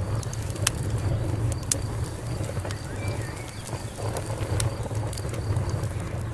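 Wood fire burning with a steady low rumble and sharp crackles and pops, the loudest about a second in, near two seconds and near the middle.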